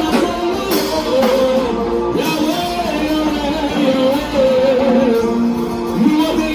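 Live praise and worship music: a band with guitar, and voices singing long held, gliding notes without clear words.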